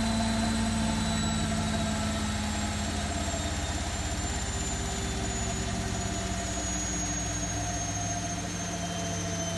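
Zanussi Lindo 100 washing machine spinning on a cottons 40 cycle: a steady motor hum under a high-pitched whine, both sliding slowly down in pitch as the drum slows.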